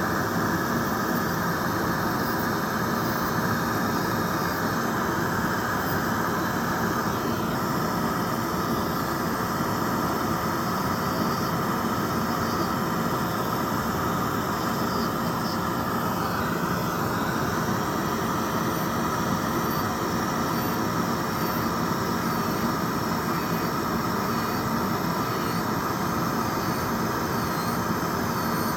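Urawa electric nail drill (e-file) running steadily at high speed with a constant whine, its bit grinding off gel nail product with a steady hiss; the grinding sound shifts slightly a few times as the bit's contact with the nail changes.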